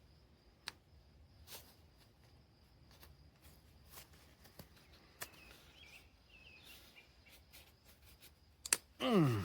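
Scattered light clicks and taps of hand tools on the metal parts of an excavator travel motor as the old, worn D-ring seals are worked off. Near the end there is a louder sound that falls steeply in pitch.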